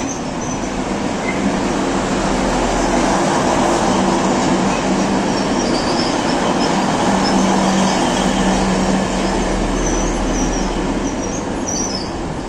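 An HŽ series 7123 diesel multiple unit passing close along the platform: steady engine hum and wheel rumble on the rails, with brief faint wheel squeals. It fades near the end as the train clears.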